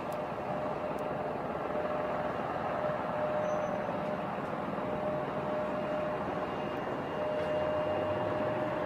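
Steady jet engine noise from the Boeing 777X taxiing, with a thin steady whine that fades out briefly twice and returns.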